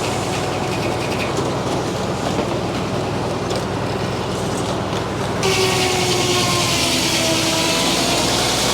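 Frick sawmill's circular headsaw running over a steady power-unit drone, then biting into a poplar log about five seconds in: a sudden hiss of cutting with a high whine from the blade that holds to the end.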